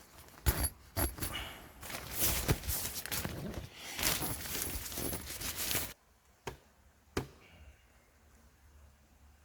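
Rustling and clattering of things being handled, with sharp clicks, for about six seconds, stopping abruptly; two separate sharp clicks follow.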